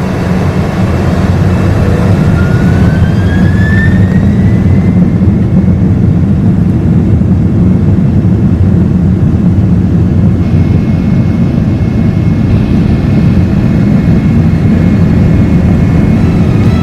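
Boeing 767-400ER's GE CF6 jet engines spooling up at take-off: a loud, steady rumble with a whine that rises in pitch a couple of seconds in.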